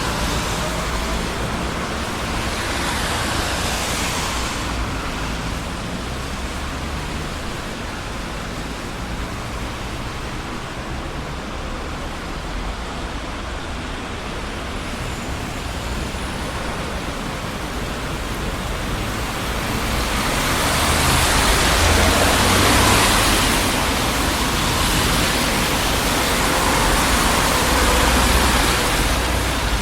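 Busy city street traffic: a steady wash of tyre and engine noise with low rumble, with vehicles passing close by about three seconds in and again from about twenty seconds on.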